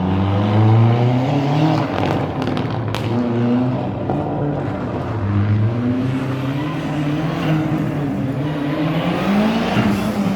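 Rally car engine revving hard, its pitch climbing and dropping several times, with a few sharp cracks about two and three seconds in.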